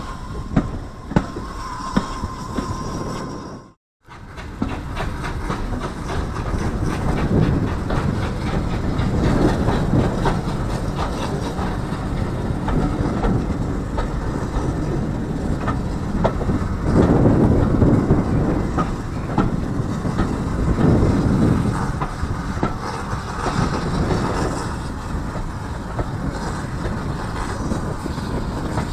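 Heritage steam train running, heard from an open carriage window: wheels clattering over rail joints under a steady rumble that swells louder a few times. The sound drops out for a moment about four seconds in.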